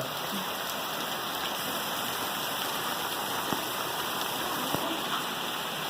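Heavy rain falling steadily, an even hiss, with two faint taps of drops about three and a half and five seconds in.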